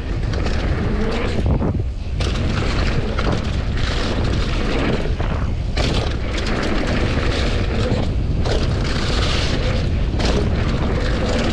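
Wind rushing hard over an action camera's microphone during a fast downhill mountain bike descent, with the Commencal Supreme DH's tyres on dirt and frequent knocks and rattles from the bike over rough ground.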